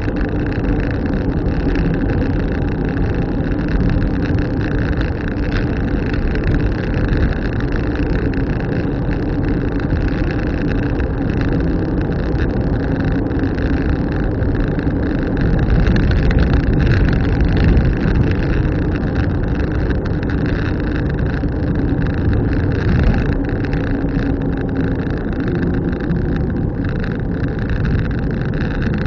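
A car driving along at a steady pace, with continuous engine and road noise and a steady low drone.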